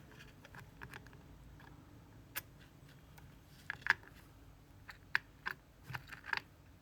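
Small metal parts of an Abus C83 lock clicking and ticking as they are handled with tools during disassembly: about a dozen irregular light clicks, the sharpest about four seconds in.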